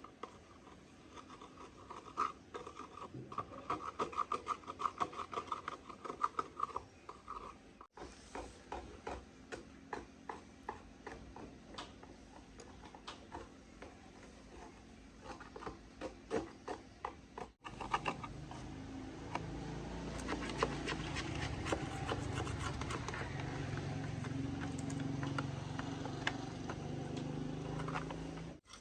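Metal hand tools clicking, clinking and scraping on machine parts, in several edited stretches; in the last ten seconds a steady low hum from a running machine sits under the clicks.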